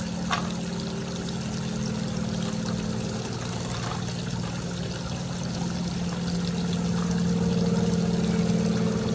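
Water trickling and pouring steadily in a toy water table over a steady low hum, with one brief click about a third of a second in.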